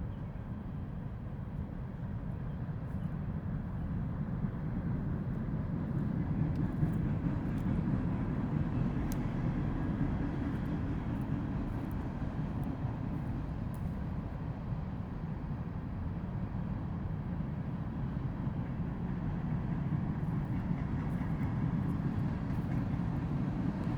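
Steady low rumble of a train running by, swelling slightly and fading a little, with faint ticks over it.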